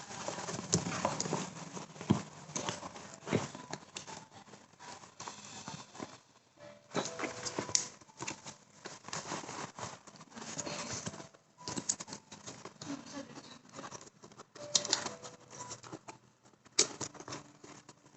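Irregular rustling, tapping and clicking of objects being handled, in uneven bursts with short pauses.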